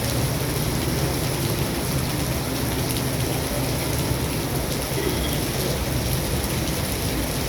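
Heavy rain pouring down steadily, an even continuous hiss of water.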